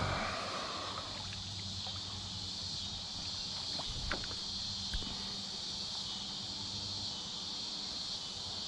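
Steady, high-pitched chorus of crickets, with two faint clicks about four and five seconds in.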